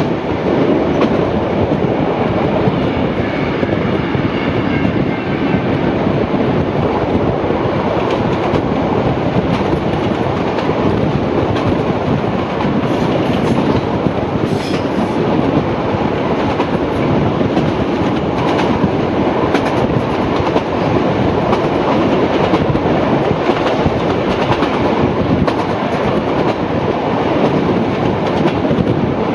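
Heritage passenger train running at speed, heard from a carriage window: a steady rumble of wheels on the track with rail clatter and clicks, loudest in the middle stretch.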